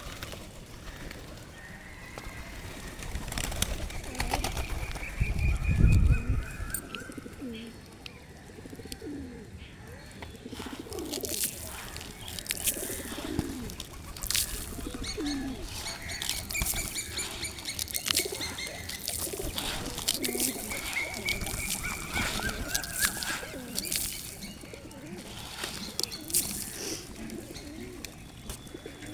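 Pigeons cooing over and over, with small birds chirping higher up and many sharp clicks among them. A brief low rumble comes about five to six seconds in.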